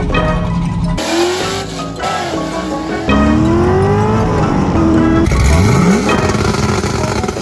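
Music with car engines revving over it, in several short cut-together pieces whose engine pitch sweeps up and down, including a steep rising rev about three-quarters of the way through.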